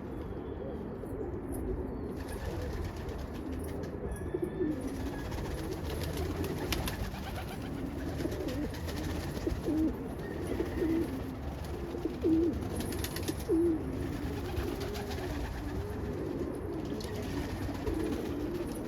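Domestic pigeons cooing, several birds overlapping in a steady chorus of low, wavering calls.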